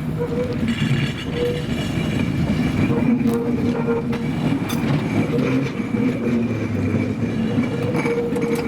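Tram running along its rails, with a steady whine over the rumble of the wheels and a few short clicks.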